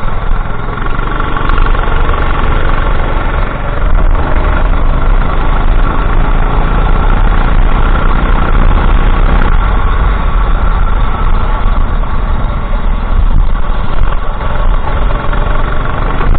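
Racing kart engine running hard under load, its loudness dipping briefly twice.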